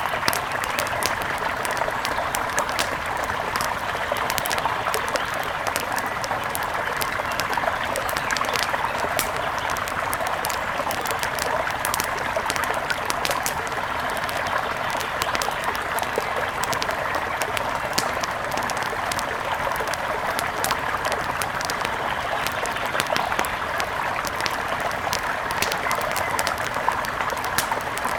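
Mountain river rushing and trickling, a steady even flow with many small sharp ticks over it.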